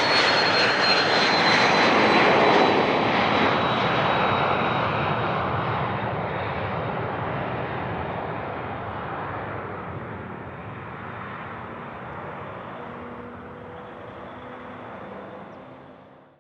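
Business jet's engines passing close by, loudest about two seconds in and then fading steadily as it moves away, with a high whine that slowly falls in pitch. The sound cuts off abruptly at the end.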